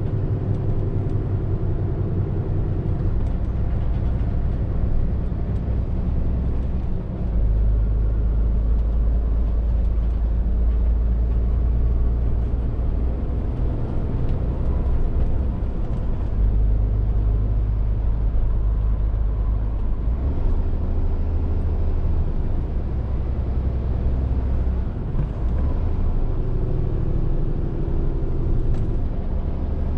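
Scania R450 lorry's diesel engine running on the road, a steady low drone whose pitch and strength shift a few times as engine speed and load change.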